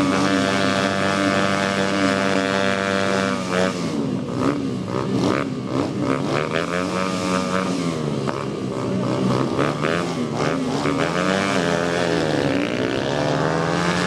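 Motorcycle engines running at steady revs, then from about three and a half seconds in, revving up and down over and over, with the pitch rising and falling repeatedly.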